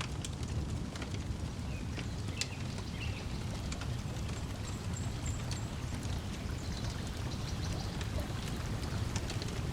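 Wood fire crackling with scattered sharp pops over a steady low wash of lake water lapping at the shore, with a few short bird chirps.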